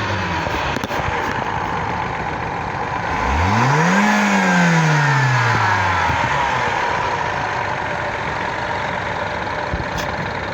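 BMW F20's N13B16A 1.6-litre turbocharged four-cylinder engine idling, revved once about three seconds in: the pitch climbs quickly for about a second, then falls back slowly to idle over the next two seconds.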